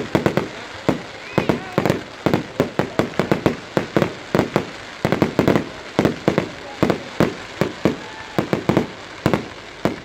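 Firework display finale: aerial shells bursting in rapid, irregular succession, several loud bangs a second.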